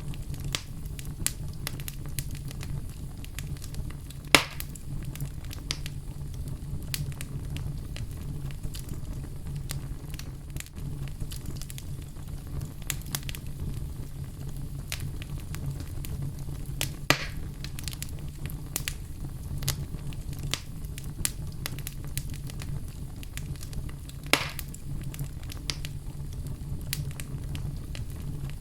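Wood fire burning in a fireplace: a steady low rumble with frequent small crackles and three louder pops, about four, seventeen and twenty-four seconds in.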